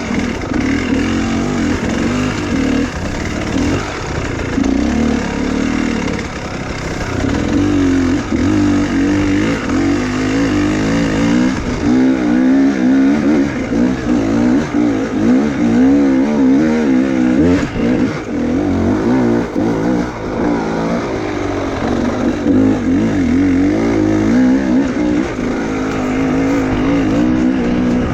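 Enduro motorcycle engine running under load, its revs rising and falling over and over as the bike works along the trail.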